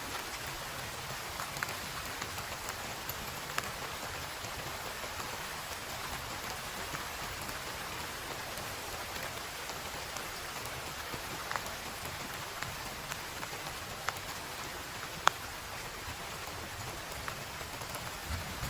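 Heavy rain falling steadily, with scattered sharper drops ticking close by, the loudest one near the end.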